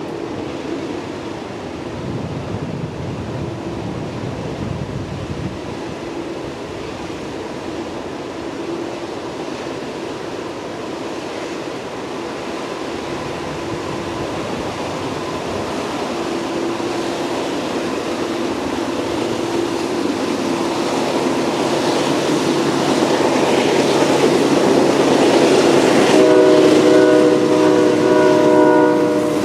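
Canadian National taconite ore train approaching, the diesel locomotives and rolling cars growing steadily louder. Near the end, a locomotive horn sounds a blast of about three seconds.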